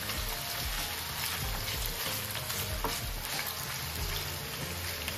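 Cubes of raw yellowfin tuna sizzling steadily in hot oil in a skillet, with a wooden spatula stirring and tapping them around the pan.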